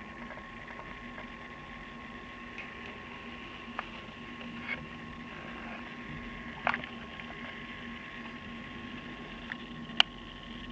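Steady faint electrical hum with two held tones, broken by a few faint clicks, the loudest near the end: the background of the air traffic control radio feed between transmissions.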